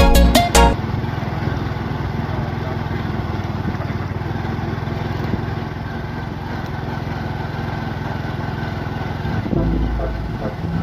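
Electronic music cuts off about half a second in, giving way to a motorcycle engine running steadily while riding. A low rumble joins near the end.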